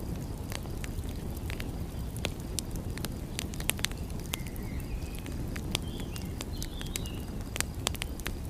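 Wood fire crackling, with sharp pops scattered irregularly, over a steady low rush of sea surf. A few faint, short, high chirps come and go around the middle and near the end.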